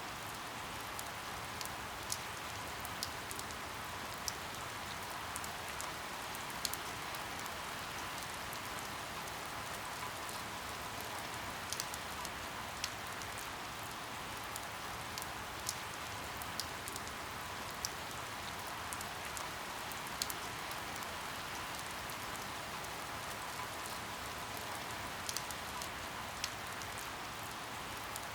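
Steady rain, with individual drops striking close by as scattered sharp ticks at irregular intervals.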